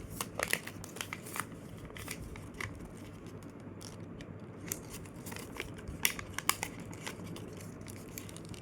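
A sheet of paper being folded and shaped by hand during a paper-airplane jet fold: scattered crinkles and sharp crackles, several of them in quick clusters near the start and again about six seconds in.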